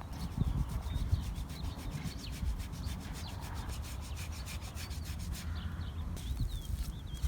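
Fast, evenly spaced scraping strokes, several a second, stopping about five seconds in, with small birds chirping.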